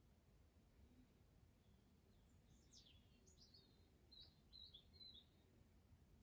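Near silence, with a bird faintly chirping a short run of quick high notes through the middle.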